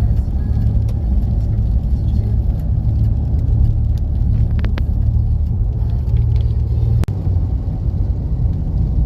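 A car on the move: a steady, loud low rumble of engine and road noise, broken by a sharp click and a split-second dropout about seven seconds in.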